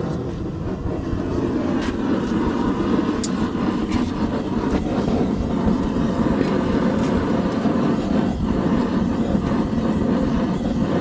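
Forge running with a steady, even rush of noise while the steel heats, with a few faint light clicks.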